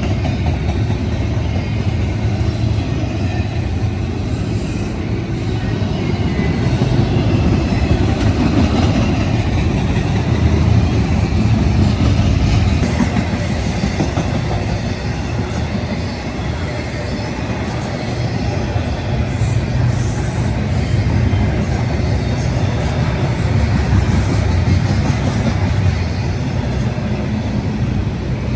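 Freight train's railcars rolling past, a steady loud rumble of steel wheels on rail with faint scattered clicks.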